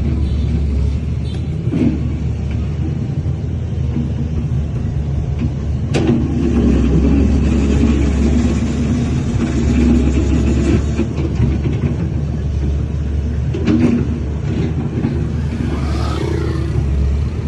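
Diesel engine of heavy earthmoving machinery running steadily with a deep rumble. A few sharp metallic knocks cut through, the loudest about six seconds in.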